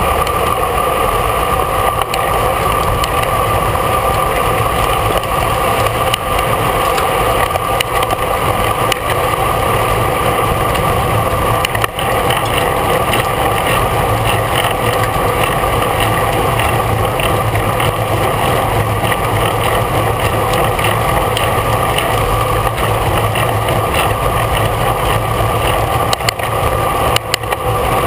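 Steady rushing noise of wind and tyres on a road bicycle ridden at race speed, without a break.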